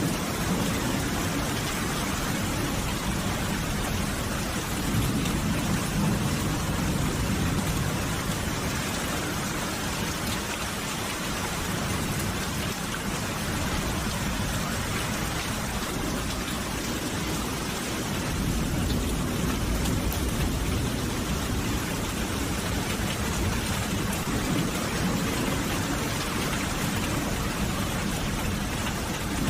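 Steady rain falling, an even hiss of drops, with a low rumble in the background that swells and fades twice.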